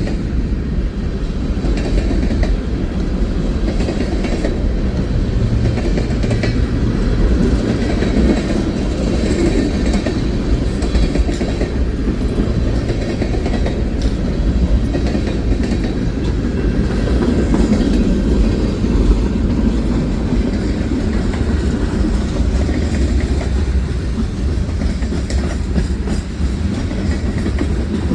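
Railroad freight cars rolling past with a steady low rumble.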